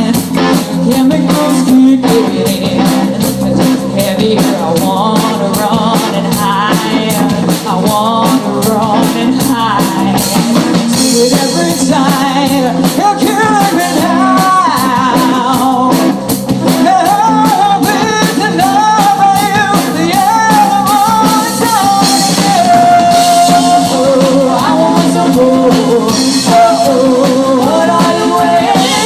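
Live rock band playing: steady drum-kit beat with bass and guitar, and a wavering vocal or lead melody line over it that includes a long held note.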